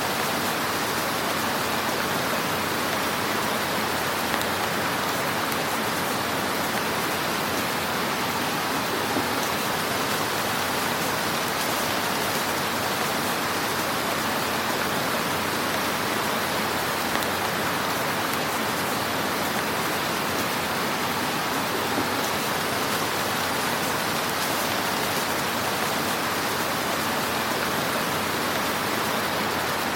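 Wood fire crackling in a fireplace: a steady, dense crackle and hiss, with a few slightly louder pops now and then.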